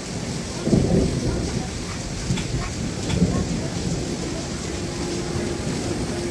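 Heavy rain pouring down steadily, with low rumbles of thunder about a second in and again around three seconds in.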